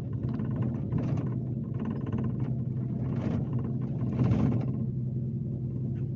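Scania K370C coach's engine running steadily under way, a low even drone, with a few short noisy swells on top, the loudest about four seconds in.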